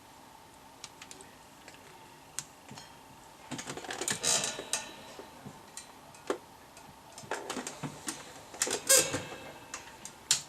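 Light clicks and clattering of small hard objects being handled, busiest in two clusters about four and nine seconds in.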